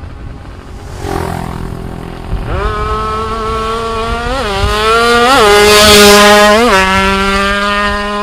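Tuned 116cc Suzuki FIZ R two-stroke motorcycle engine running: its pitch climbs about two seconds in, the throttle is blipped three times in quick pitch rises, and it then settles to a steady idle.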